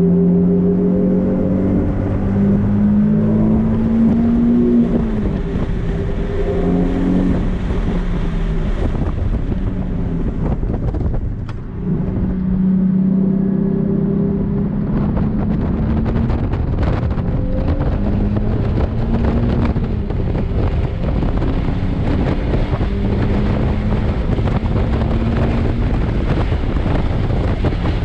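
Nissan 370Z's 3.7-litre V6 running hard at speed, its pitch climbing and falling again and again as the car accelerates and shifts, with a brief lift about eleven seconds in. Wind buffets the microphone.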